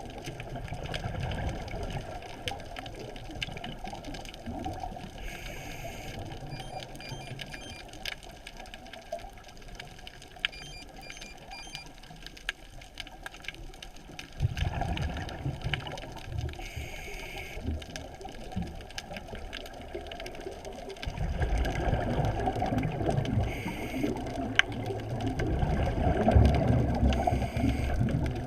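Muffled underwater noise heard through a GoPro's waterproof housing: a low watery rumble with many faint clicks, swelling louder briefly about halfway through and again over the last several seconds.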